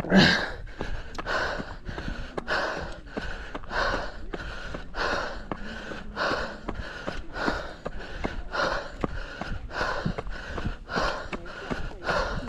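A runner breathing hard and fast while climbing a steep trail, about two breaths a second in a steady rhythm. Footsteps tick faintly between the breaths, over a low rumble of wind on the microphone.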